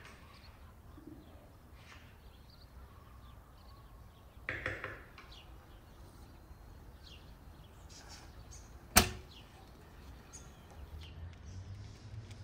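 Background bird chirping, short thin calls scattered throughout, with a brief rustling burst about four and a half seconds in and a single sharp knock about nine seconds in, the loudest sound.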